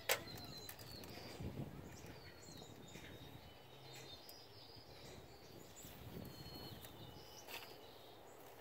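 Small birds chirping faintly in short whistled notes over quiet outdoor background noise, with a sharp click just after the start and a few faint knocks.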